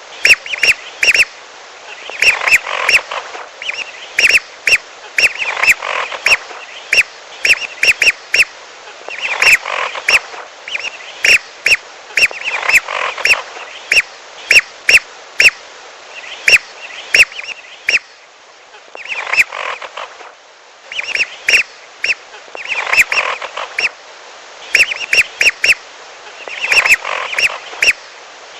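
Whistling duck (belibis) lure-call recording: clusters of short, sharp whistled calls repeated in bursts every second or two, with a longer pause about two-thirds of the way through.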